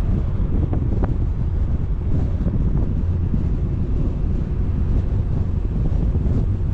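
Wind buffeting the microphone: a steady, dense low rumble with no clear pitch or rhythm.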